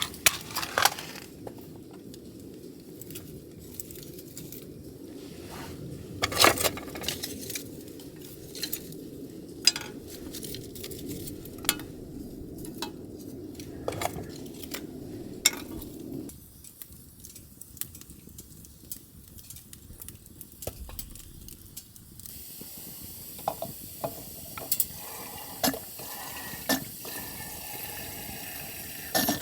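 Metal camp cookware and utensils clinking and knocking in repeated short strikes. A steady low rumble runs under them and stops abruptly about two-thirds of the way through. A steady hiss starts near the end.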